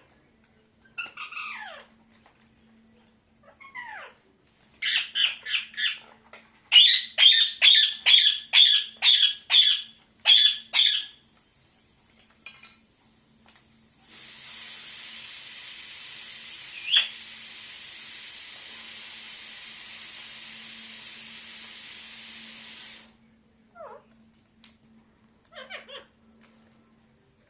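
Pet parakeet calling: a few short falling calls, then a run of about fifteen loud harsh squawks in quick succession, roughly two a second. After that a steady hiss runs for about nine seconds and cuts off suddenly, with one short call in the middle of it, and a few brief calls follow near the end.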